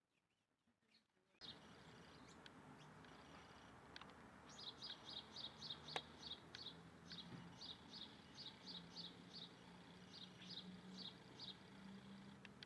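A bird calling in a long run of short, high chirps, about four a second, in groups with brief pauses, over a steady background hiss. The hiss and the calls start suddenly after a second and a half of near silence.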